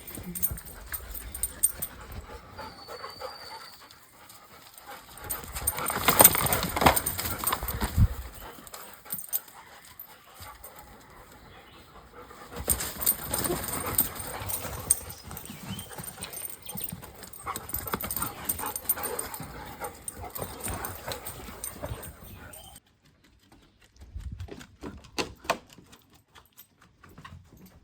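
Dogs moving about and sniffing around, with irregular scuffling, rustling and small knocks. The background cuts off abruptly about 23 seconds in, leaving only a few scattered sounds.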